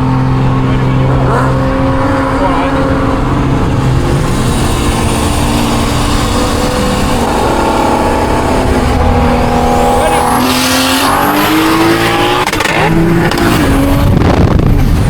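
Engine of a big-turbo Toyota Supra with a built motor, heard from inside the car: it runs at a steady pitch, then revs up about two-thirds of the way in, with a high rising whine as it climbs.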